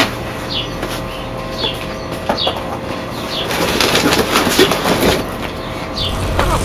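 A bird chirping repeatedly, short falling notes about once a second. A rushing noise swells up through the middle and drops away about six seconds in.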